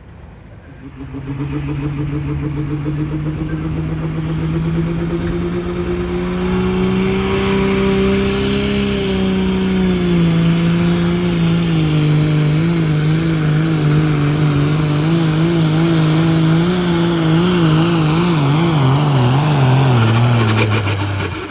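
Pulling truck or tractor engine at full throttle dragging the weight-transfer sled down the track. It comes on hard about a second and a half in, its pitch climbs a little and then sags under the growing load, wavers up and down near the end as the machine bounces, and falls away as the throttle comes off at the end of the hook.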